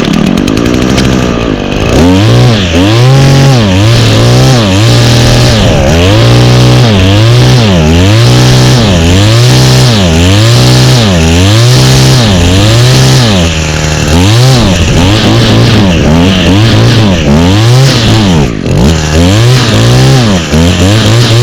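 Small two-stroke engine that has just started, running unevenly: its speed surges up and down about once a second instead of holding steady. This is the poor running of an engine whose primer bulb would not prime fuel.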